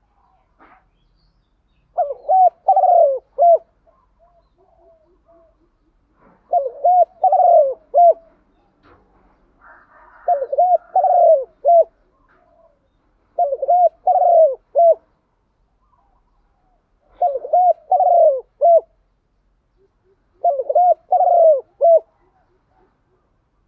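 Spotted dove cooing: six repeated phrases of a few low, curved coo notes, one every three to four seconds, with faint chirps in between.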